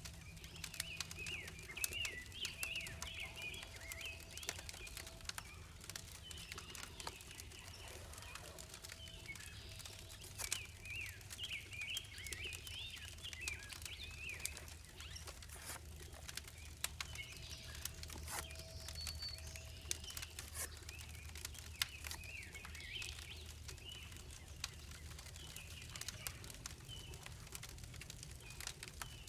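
Songbirds chirping and singing, with scattered sharp ticks throughout and a steady low hum underneath.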